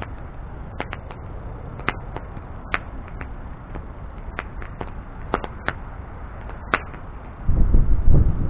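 Wood bonfire burning with a steady low noise and sharp, irregular crackles and pops from the burning wood. Near the end a louder low rumbling sets in suddenly.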